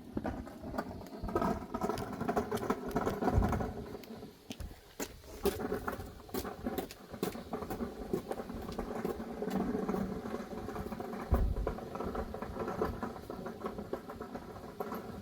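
Light wooden knocks and clatter of split firewood and pallet boards being handled and set down, over a steady faint hum.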